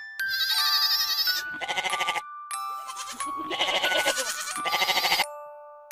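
Goat kid bleating: two long, trembling calls of about two seconds each, the second starting a moment after the first ends.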